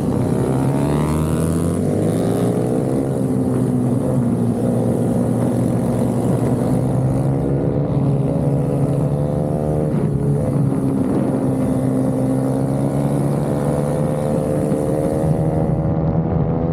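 Racing minibike engine heard from an onboard camera at full race pace, its pitch rising and falling again and again as the rider works the throttle, with brief dips about eight and ten seconds in.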